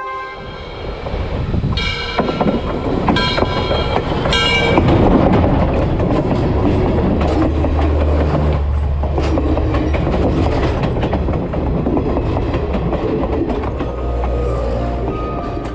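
A train running, its wheels rumbling and clattering on the rails, with three short horn blasts in the first five seconds.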